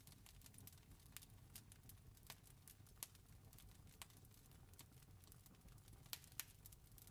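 Faint crackling of a wood fire: irregular snaps and pops over a low steady rumble, with the sharpest pops about three seconds in and twice near six seconds.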